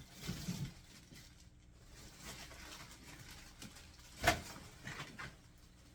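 Quiet handling noises: light clicks and rustling, with one sharp knock a little past four seconds in.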